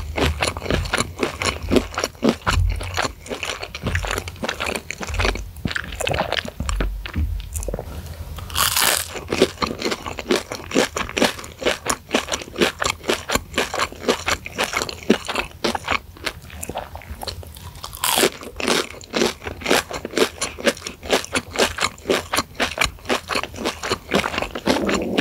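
Close-miked chewing of deep-fried, breaded Kanzler crispy chicken sticks dusted with chili flakes: a continuous run of crisp crunching chews, with two louder, sharper crunches about nine and eighteen seconds in.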